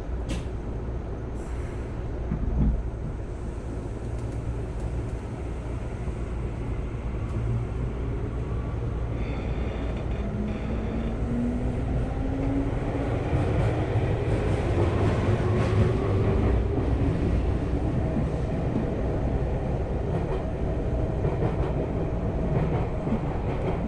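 Electric commuter train starting from a station and accelerating, heard from inside the car: low rumble of the wheels on the rails, with the traction motors' whine rising steadily in pitch as the train gathers speed. A thump about three seconds in.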